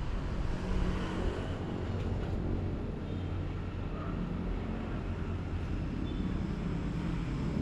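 Steady low rumble of motor traffic, with faint engine hum under an even background hiss.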